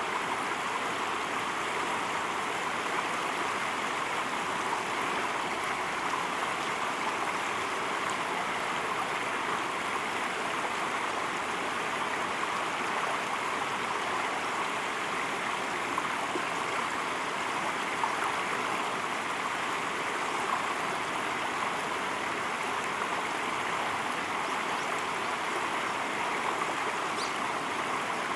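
River water running steadily, an even rushing sound, with a faint short high note near the end.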